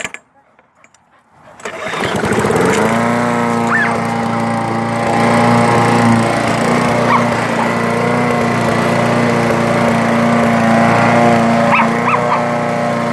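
Lawn mower engine starting about two seconds in, rising and then running steadily. A dog gives a few short barks over it.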